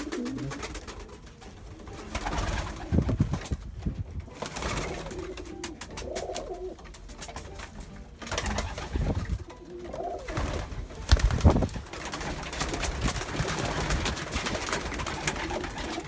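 Racing pigeons cooing in a loft. Short clicks and rustles from the birds moving run through it, with two loud low knocks about three and eleven seconds in.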